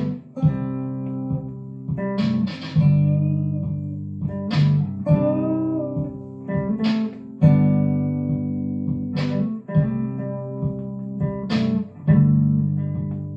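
Guitar intro: a chord strummed about every two and a half seconds, each left ringing until the next.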